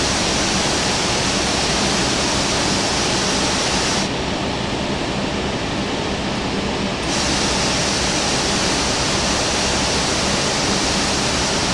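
Loud, steady rushing roar of airliner noise during taxi, with a faint steady hum underneath. The hiss changes abruptly about 4 and 7 seconds in.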